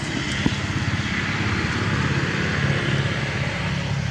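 A motor vehicle's engine running as it passes, swelling toward the middle and easing off.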